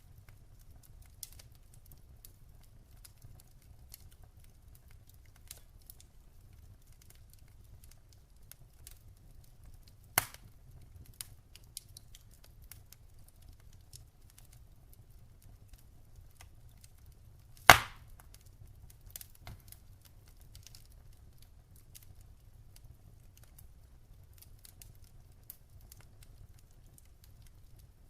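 Wood fire crackling in a fireplace: scattered small snaps and pops over a low steady rumble, with a sharp loud pop about ten seconds in and a louder one near eighteen seconds.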